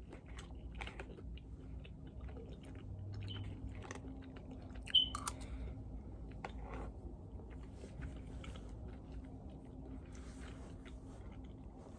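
Mouth sounds of a person chewing and eating fish, with soft scattered clicks of the lips and mouth and one brief louder click about five seconds in.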